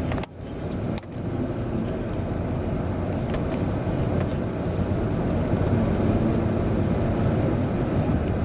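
Steady rumble of a car driving: engine and road noise, cut short by a brief drop in level just after the start.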